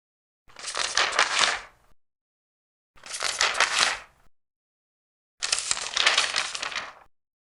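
Large paper pages being turned one at a time, three times: each turn is a crackly rustle of about a second and a half, with dead silence between turns.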